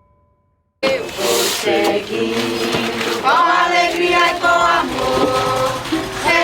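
A group of voices singing together in a chant-like melody, starting abruptly about a second in after a brief silence.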